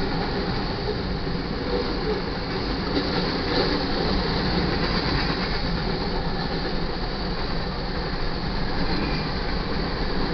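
Freight train cars, covered hoppers and boxcars, rolling past at speed: a steady rumble and rattle of steel wheels on the rails.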